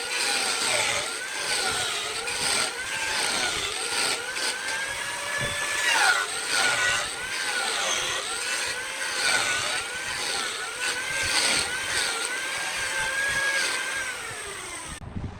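A motor running at a steady level, its whine dipping in pitch and coming back up roughly once a second, as if it were repeatedly loaded and released.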